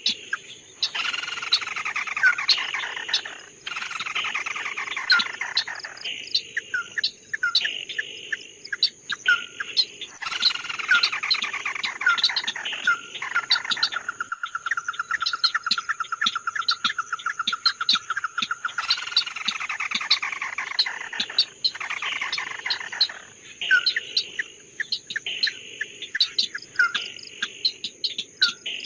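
A songbird singing: repeated falling, rippling phrases and sharp single notes, with one long, even trill in the middle. A steady high insect-like buzz runs underneath.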